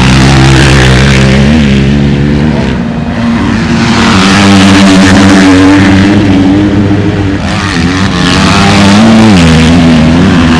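Motocross bike engines running loud, their pitch rising and falling as they rev and shift, with brief dips about three seconds in and again near eight seconds.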